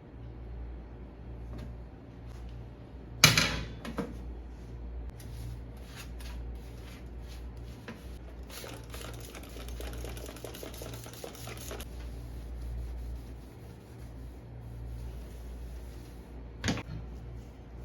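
Household clatter: scattered clicks and taps of objects being handled, with a sharp knock about three seconds in and another near the end, and a few seconds of rapid ticking in the middle, over a steady low hum.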